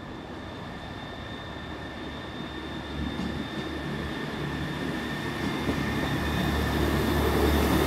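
A British Rail Class 158 diesel multiple unit pulls out of the station and approaches, its diesel engine and running gear rising steadily in loudness from about three seconds in. A steady high-pitched whine sounds in the background.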